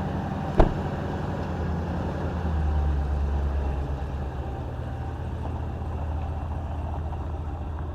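Pickup truck running, a steady low engine and road drone, with one sharp click about half a second in; about two and a half seconds in the low engine note gets stronger and deeper.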